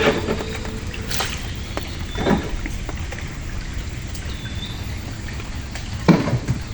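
Water splashing and trickling around a small boat, with a few short louder splashes or knocks: one about a second in, one a little after two seconds, and two close together near the end.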